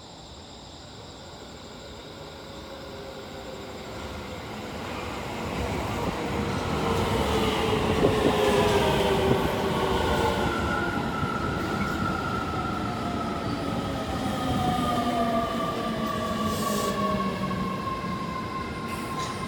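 Keio 7000 series electric train running into the station, growing louder over the first eight seconds. Its traction motors give a whine of several tones that slowly falls in pitch as the train slows, over the rumble of the wheels on the rails.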